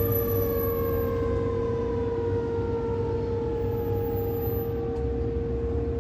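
Fire truck siren winding down: its pitch falls slowly and steadily over about five seconds after a brief rise just before. A steady tone and a low engine rumble run underneath.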